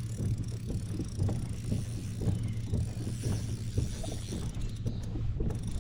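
Fishing kayak under way on the water: a steady low hum from its drive, with irregular small knocks and water splashes.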